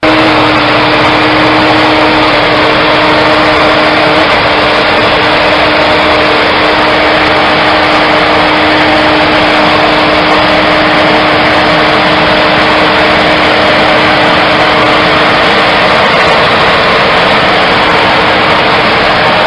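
An engine running steadily and loud, with an even hum under a dense noise, starting abruptly as the clip cuts in.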